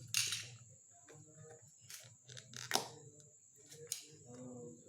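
Webcam box packaging being opened by hand: a short ripping rustle at the start, then scattered taps and rustles with two sharp clicks, the loudest about three seconds in.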